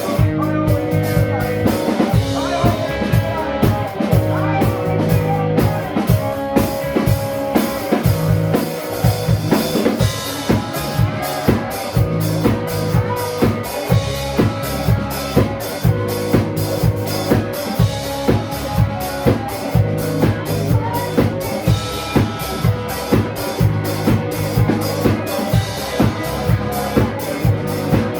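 Live band playing an instrumental passage with no singing. A drum kit keeps a steady beat of about two hits a second on kick and snare, under sustained bass and other instrument notes.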